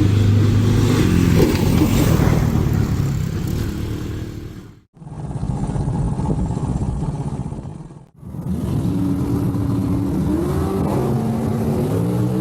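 Old GMC stake truck's engine running with a deep, uneven note, cutting out abruptly twice; near the end its pitch climbs as it revs up.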